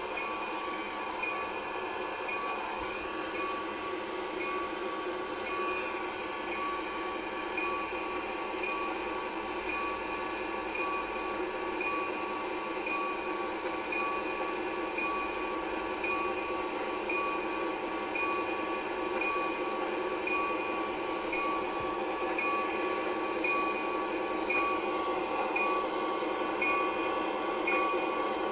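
Train locomotive running steadily, with a bell ringing again and again at an even pace, about every second and a half.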